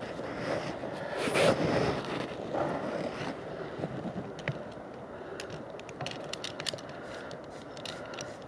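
Rustling and scraping handling noise with scattered light clicks and wind on the microphone, loudest about a second in; no chainsaw is running.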